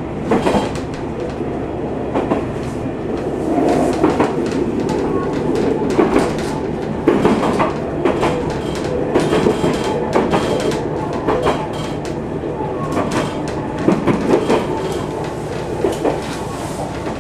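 JR Shikoku 2000 series diesel train running at speed, heard from inside the car: a steady rumble with irregular clacks and knocks from the wheels over the rails.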